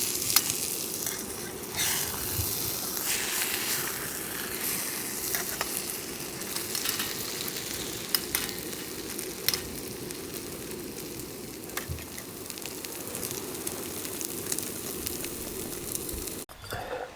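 Food sizzling as it fries in a pan, with scattered small pops and spits. The sizzle stops abruptly near the end.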